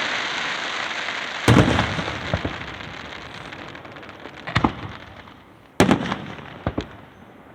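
Aerial fireworks shells bursting over a lake. A crackling hiss fades out, then comes a string of sharp booms: the loudest about a second and a half in, and others in quick pairs around the middle and near the end, each trailing off in a rumbling echo.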